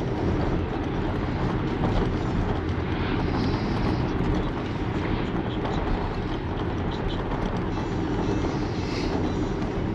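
Steady road and engine noise inside a moving car's cabin, a low rumble that runs on evenly.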